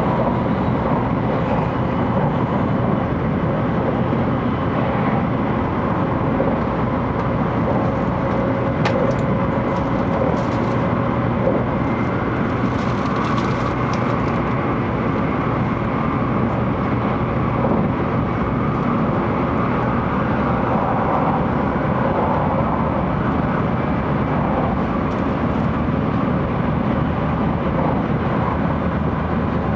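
Steady running noise inside the passenger cabin of a 700 series Shinkansen travelling on the line, an even rumble, with a brief click about nine seconds in.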